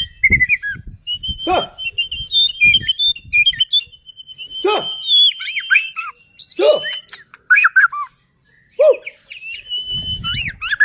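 White-rumped shama (murai batu) singing: a varied run of clear whistles, pitch glides and quick chattering phrases, broken by short pauses.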